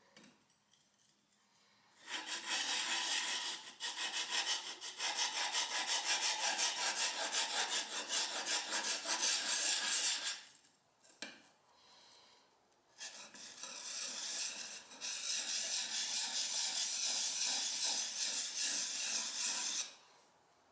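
Plane blade rubbed rapidly back and forth freehand on a sharpening stone, a steady gritty scraping. It comes in two spells of about eight seconds each, with a short break near the middle.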